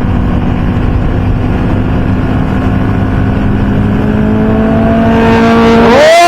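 Motorcycle engines and wind noise at highway speed, with one motorcycle accelerating over the last couple of seconds: its engine note rises in pitch and grows loud near the end.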